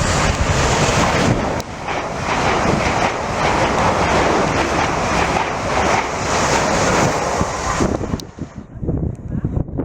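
A train passing at speed close by: a steady rush of wheel and air noise with wind buffeting the microphone, dropping away sharply about eight seconds in as it clears.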